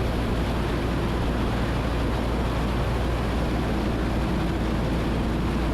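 Cessna 172N's four-cylinder Lycoming engine and propeller running steadily at reduced power, heard inside the cabin as an even low drone with air noise.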